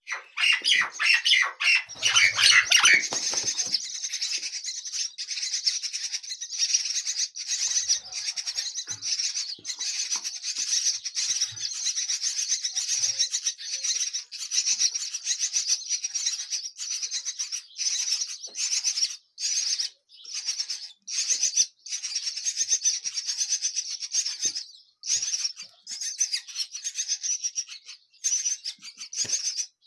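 Nestling birds' begging calls: a continuous stream of rapid, high-pitched cheeping, lower and louder for the first three seconds, with a few brief pauses in the second half.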